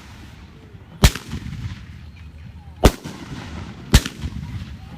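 Consumer firework cake shells bursting overhead: three loud, sharp bangs spaced unevenly about a second or two apart, each followed by a low rolling echo.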